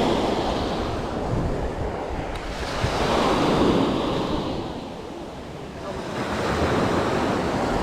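Surf breaking and washing on the shore, swelling and easing in waves about every few seconds, with wind buffeting the microphone.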